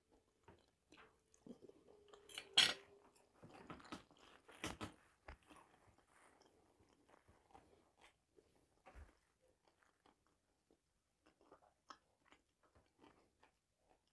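Chewing and crunching of food close to a lapel microphone. It is loudest in the first five seconds, with the sharpest crunch about two and a half seconds in, then fades to faint, sparse chewing.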